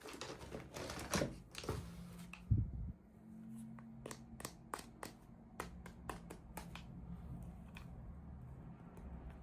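Hands unboxing small toys: packaging rustles for the first few seconds, then about a dozen sharp, irregular light clicks and taps.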